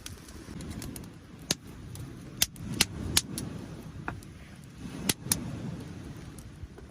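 Wood fire crackling, with a handful of sharp pops over a low rumble.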